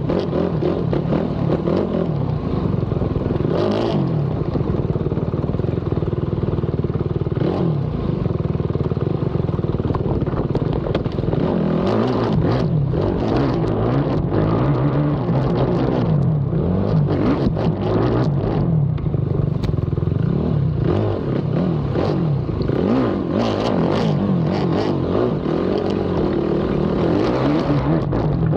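Race ATV engine revving hard, its pitch climbing and dropping again and again as the rider accelerates, shifts and backs off through the track. Knocks and clatter from the chassis and debris come through, thickest in the middle stretch.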